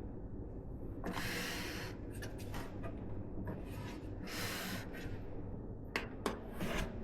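Two longer bursts of rustling hiss, then two sharp clicks near the end, over a steady low hum.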